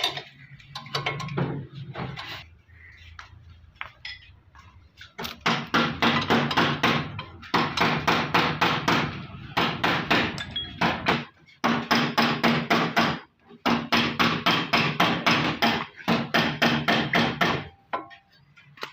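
Rapid hand hammering on metal, about seven blows a second, in runs of a couple of seconds with short pauses between them.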